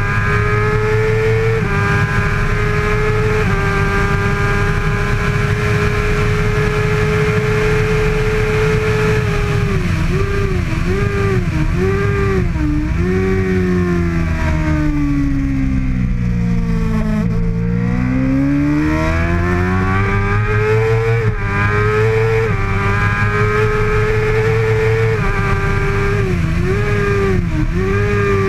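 2013 Kawasaki ZX-6R 636 inline-four racing engine at full race pace: revs held high, then a run of quick downshifts with the revs dipping and flaring, falling to their lowest just past halfway. The revs then climb back up through the gears in steps and are held high again, with another short string of dips near the end.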